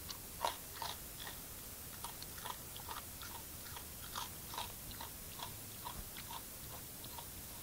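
Swamp wallaby chewing a biscuit: a run of small, irregular crunches, two or three a second.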